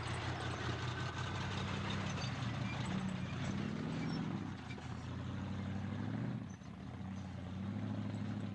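Big truck engine running steadily, its pitch wavering slightly near the middle, with a brief drop in level about six and a half seconds in.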